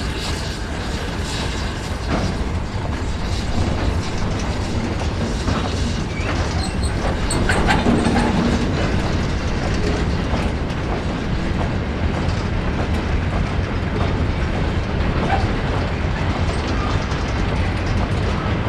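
A train running past on the track: a steady heavy rumble of wheels on rail, with a few brief clanks and squeals about halfway through.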